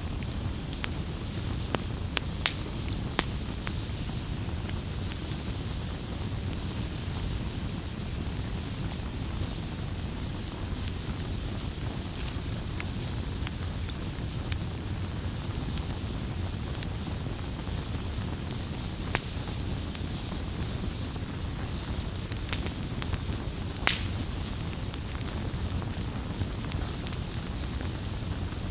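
Campfire crackling steadily over a low rumble of burning wood, with scattered sharp pops, a few louder ones standing out.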